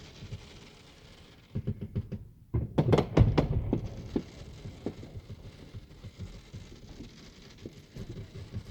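Fireworks going off: a run of sharp pops and bangs starting about a second and a half in, densest and loudest around three seconds in, then scattered smaller pops.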